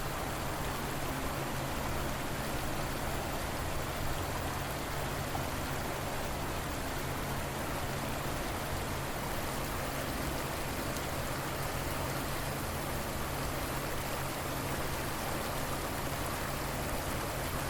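River water flowing steadily, an even wash of noise without breaks or changes.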